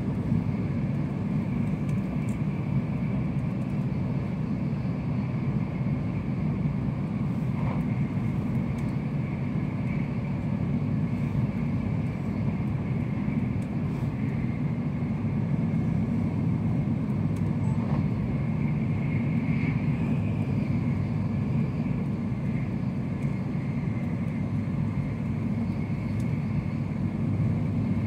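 Running noise of an N700S Shinkansen heard inside the passenger cabin at speed: a steady low rumble with a faint high hum above it and a few light ticks.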